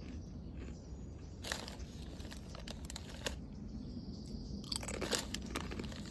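Scattered crunching and crackling noises over a low steady rumble, thickest about five seconds in.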